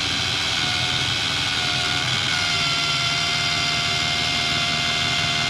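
Kimo 20V cordless polisher running steadily on speed setting 2, buffing polishing compound onto a plastic stove knob: a steady motor whine whose pitch dips slightly about two seconds in.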